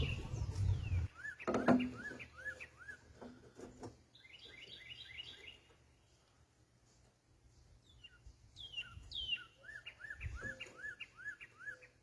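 Songbirds singing: phrases of quick, repeated chirping notes, several to the second. A low rumble fills the first second, and a single sharp knock follows just after it.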